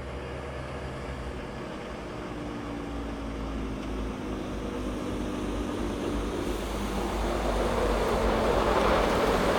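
Heavy timber truck's diesel engine running, with rumble and road or tyre noise that grows gradually louder.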